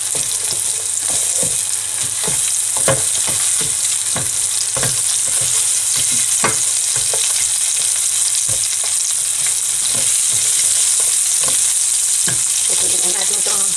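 Onion sizzling in hot oil in a non-stick frying pan, with a steady hiss. A spatula scrapes and taps against the pan every second or so as the onion pieces are stirred and separated.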